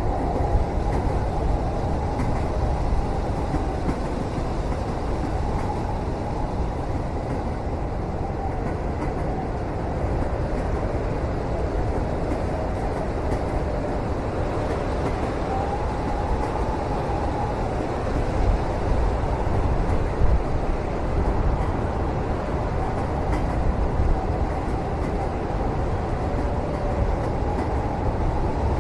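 Passenger train running steadily, heard from inside a carriage: a constant low rumble with a faint whine that wavers up and down, and a few soft knocks, the loudest about two-thirds of the way through.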